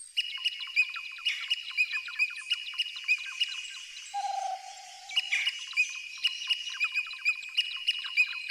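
Birds chirping: a dense run of short, high calls repeating several times a second, with one lower held note lasting about a second around four seconds in.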